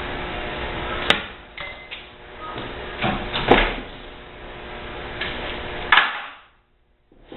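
Sharp metallic knocks and clanks of hand tools working on a dishwasher being taken apart: one strike about a second in, a couple more around three and a half seconds, and a last one near six seconds.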